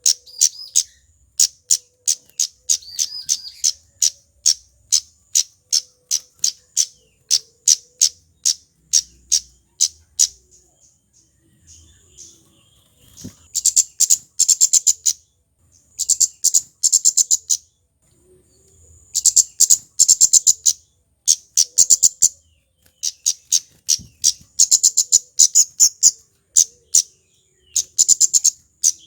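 Male kemade flowerpecker calling: rapid runs of sharp, very high-pitched chips, several a second, broken by short pauses.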